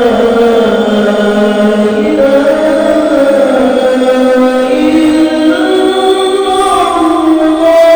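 Solo voice singing the adhan (Islamic call to prayer) in a high register: one long, ornamented phrase held without a break, the pitch stepping upward over the second half.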